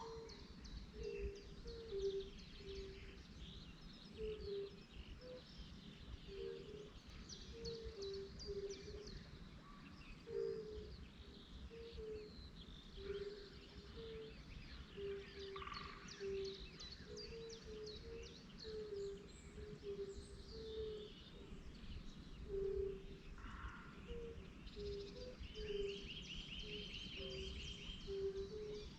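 Outdoor birdsong: several birds chirping high and quick, over a steady run of short, low two-note calls repeated every second or so. A fast, even trill comes in near the end.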